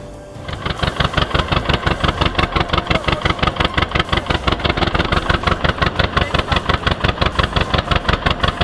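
Tractor's diesel engine running with a loud, regular pulsing beat, about six or seven pulses a second, starting about half a second in.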